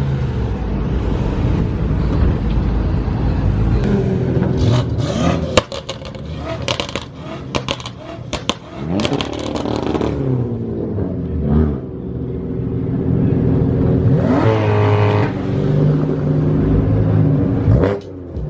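Loud performance car engines running and being revved, the pitch rising and falling several times. A quick run of sharp cracks comes in the first half.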